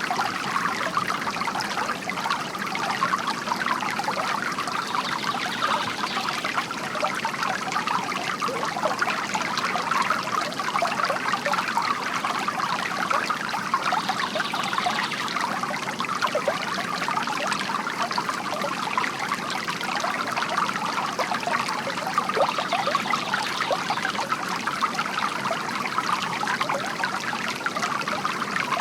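Water trickling and splashing steadily from a bamboo water fountain.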